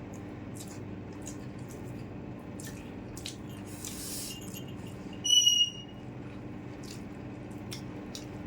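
Eating noises: wet lip smacks and chewing clicks from people eating rice and chicken curry, over a steady low hum. A short, sharp high-pitched squeak cuts through about five seconds in and is the loudest sound.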